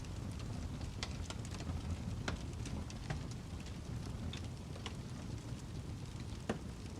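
Fireplace crackling: a steady low rumble of the fire with irregular sharp pops and crackles, the loudest pop about six and a half seconds in.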